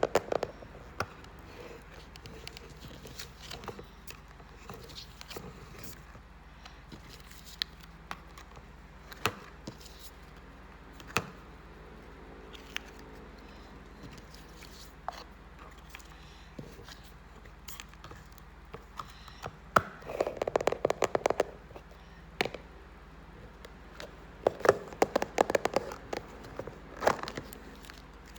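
Hands handling a package during unboxing: scattered taps and clicks, with two short spells of crinkling, crackling packaging rustle, the second one near the end.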